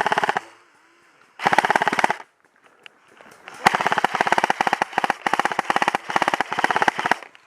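Airsoft electric gun firing on full auto in rapid bursts: a short burst trailing off at the start, another of under a second about a second and a half in, then a long burst of about three and a half seconds.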